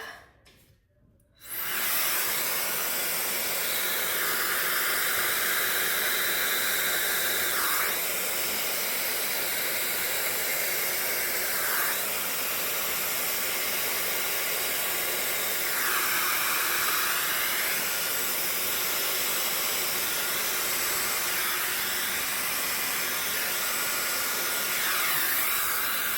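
Hairdryer switched on about a second and a half in and blowing steadily, its tone shifting slightly every few seconds as it is swept across wet acrylic paint to blow it out into a bloom.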